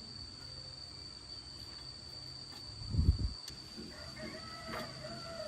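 A steady high-pitched insect trill, like a cricket, with a chicken calling from about four seconds in. About three seconds in comes a single dull low thump, the loudest sound.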